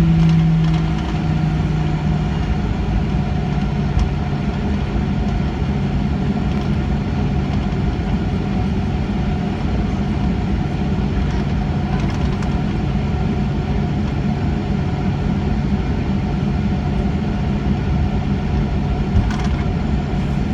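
Boeing 737-800's CFM56 engines running steadily at low power, a continuous drone with a low hum. One hum tone drops slightly just after the start, and there are a few faint clicks.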